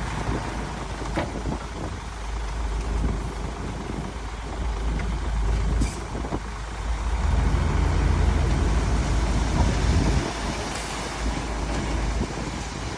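Diesel engines of heavy earthmoving machinery running, a low rumble that grows louder for a few seconds past the middle.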